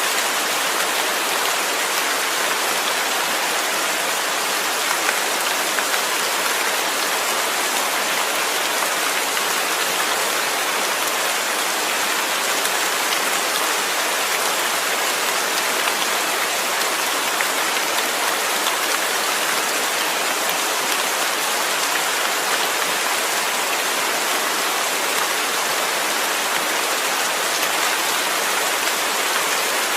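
Steady, even rain falling, a constant hiss of many drops with no pauses or single events standing out.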